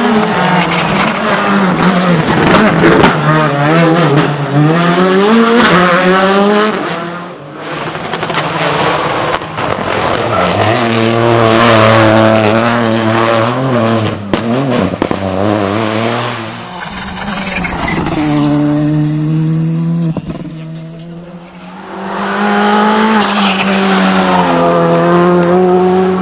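Rally2 rally cars' turbocharged four-cylinder engines driven flat out on a stage, revving up and falling back through rapid gear changes. The sound fades away twice before the next burst of engine noise comes in.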